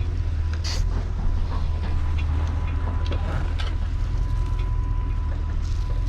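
A plow truck's engine running steadily in a deep, even rumble, with a thin steady whine above it and a few light scattered ticks.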